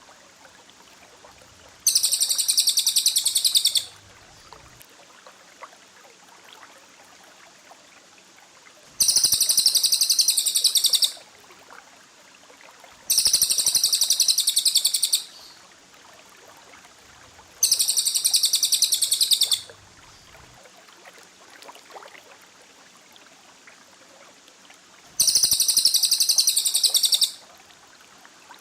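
Songbird giving rapid-fire, high-pitched trilling song in five bursts of about two seconds each, with pauses between them.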